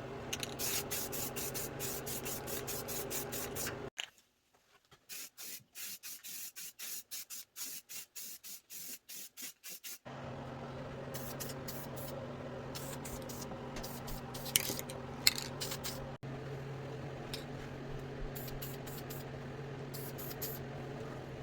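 A motor-driven shop tool running with a steady hum and a rough abrasive hiss. About four seconds in it gives way to roughly six seconds of hand rubbing or sanding strokes, about two a second, and then the motor hum returns.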